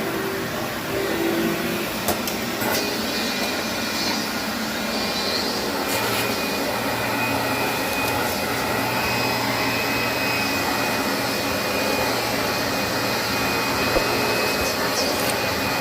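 Vacuum cleaner running steadily over carpet, with a few sharp clicks as debris is sucked up.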